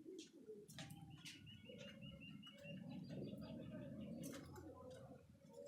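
Domestic pigeons cooing softly in a loft, with a quick run of high cheeps about a second in and a few scattered sharp clicks.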